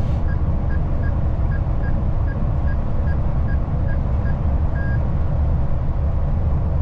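Steady low rumble of a moving passenger train. Over it, a run of short high beeps or dings at about two to three a second lasts through the first four seconds or so and ends in one longer beep.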